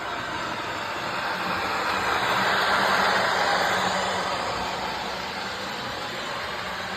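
Model train running along the track, its wheels rolling and motor humming, growing louder to about three seconds in and then fading somewhat.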